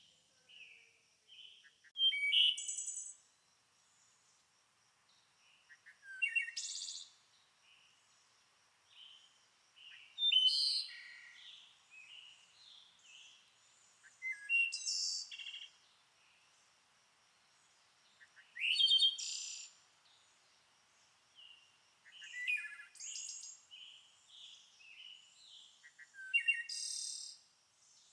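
Songbird singing: a loud, varied phrase of about a second, repeated roughly every four seconds, with softer chirps between the phrases.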